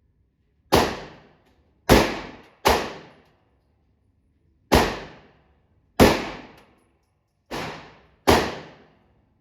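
Seven 9mm pistol shots fired at an uneven pace, each a sharp crack that dies away in about half a second; the sixth shot is quieter than the rest.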